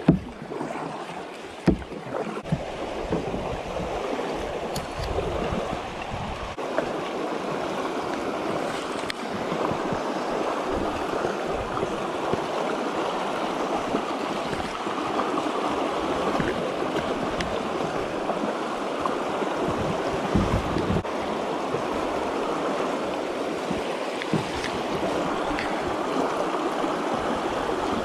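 River water rushing over a shallow, rocky riffle, a steady wash that grows louder about nine seconds in, with a couple of sharp knocks near the start.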